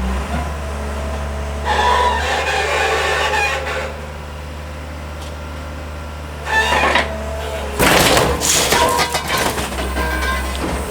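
A scrap car being crushed by a heavy machine. Under a steady low engine hum, metal squeals and creaks, then loud crunching comes about six and a half seconds in and again from about eight seconds in.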